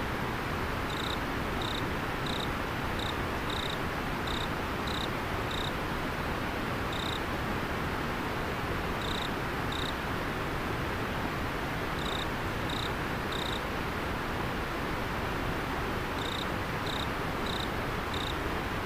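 Steady rush of a flowing river, with an autumn insect chirping over it in short, high notes, about one and a half a second, in runs of several chirps broken by pauses of a second or two.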